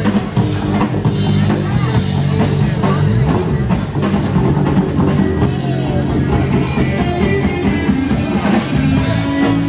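Rock music played loud, with a drum kit and guitars.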